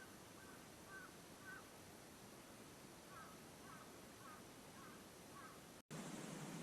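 Faint bird calls over steady background hiss: two runs of about five short notes each, roughly two to three notes a second. Near the end the sound drops out for an instant and comes back with louder hiss.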